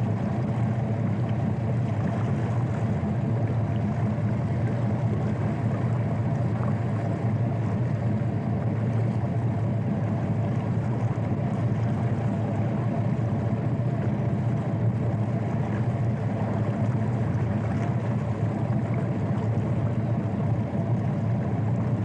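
Boat engine running steadily, a low even drone with a constant pitch.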